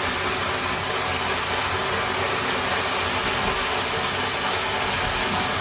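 Vapour blasting cabinet running: the blast gun sprays a steady hiss of water, abrasive and compressed air onto a steel engine lifting bracket, with a steady machine hum underneath.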